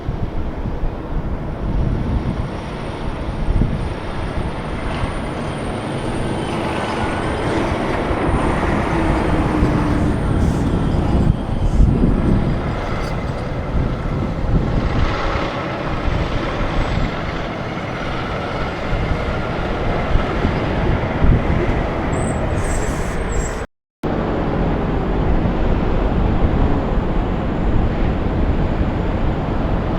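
Heavy diesel trucks passing on a road: a steady rush of engine and tyre noise that swells in places. The sound drops out for a moment about three-quarters of the way through.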